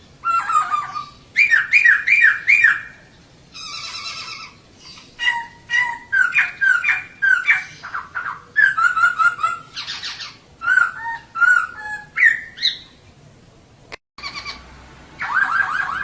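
Female poksay (laughingthrush) calling in quick runs of short, sharp chirping and squawking notes, bursts separated by brief pauses, with a momentary break in the sound about two seconds before the end.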